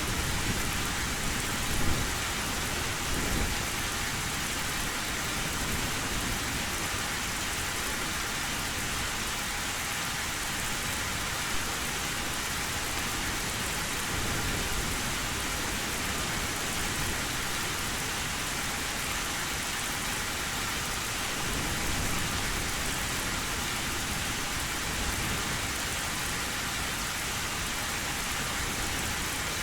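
Heavy rain drumming steadily on an old metal roof, with low thunder rumbling in the background, most strongly about two seconds in and again near the twenty-second mark.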